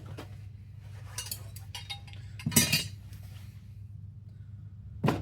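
Small metal airsoft gearbox parts clinking and tapping as they are handled and set down, with the loudest cluster of clinks about two and a half seconds in and a single sharp clink near the end. A steady low hum runs underneath.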